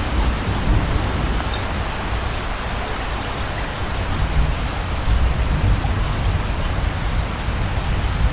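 Steady rain falling, with a few sharp drop ticks, over a low rumble of distant thunder that swells near the end.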